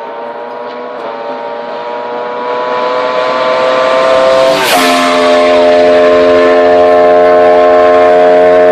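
Superbike engine under hard acceleration, its pitch climbing steadily, then an upshift about halfway through with a sudden drop in revs, after which it pulls loudly in the next gear.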